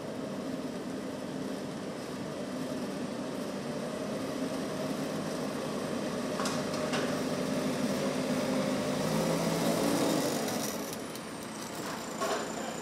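A motor vehicle's engine running, growing louder until about ten seconds in and then dropping away, with a few sharp knocks.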